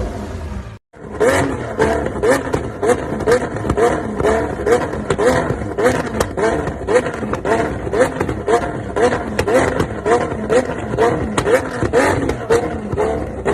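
Lamborghini Aventador SVJ's naturally aspirated V12 exhaust, with a regular pulse about twice a second, after a brief cut to silence just under a second in.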